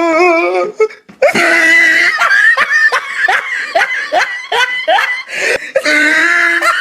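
A person laughing hard: a wavering drawn-out laugh, a brief break about a second in, then a fast string of high-pitched ha's.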